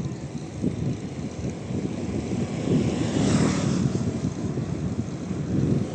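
Wind buffeting the microphone of a moving bicycle, a loud fluttering rumble, with a brief rising hiss about three seconds in.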